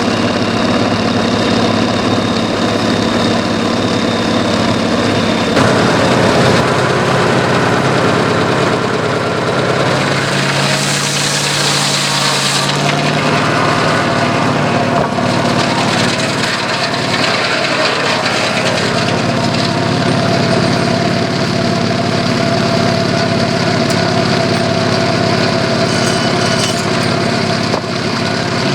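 Homemade sawmill driven by a Chevy V8 engine, running steadily, its note shifting in pitch several times as the circular head saw works through logs, with a burst of higher hiss about eleven seconds in.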